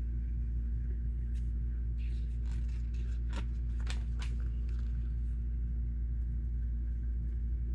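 Steady low hum, with several light clicks and rattles of Lego pieces being handled between about one and a half and four and a half seconds in.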